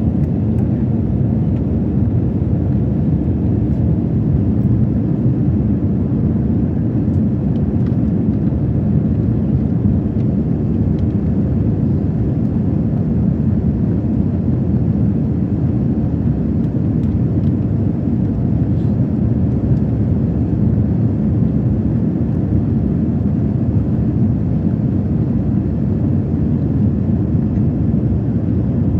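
Steady low rumble of engine and airflow noise inside an Airbus A321's passenger cabin in flight.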